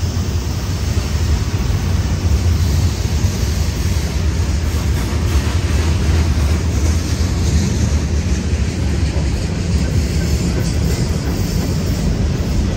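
CSX freight train cars rolling past on the track: a steady, loud low rumble of steel wheels on rail.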